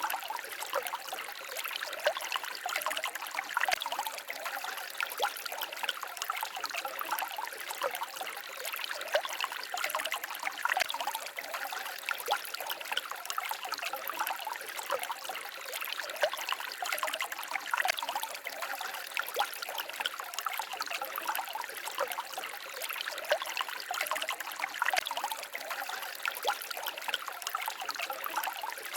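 Small forest stream babbling and trickling over stones, a steady stream of small splashes and gurgles.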